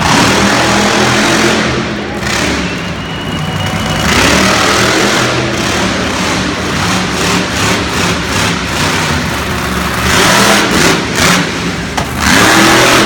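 Monster truck engine revving hard and loud, the revs surging and easing several times, loudest at the start, about four seconds in, and near the end.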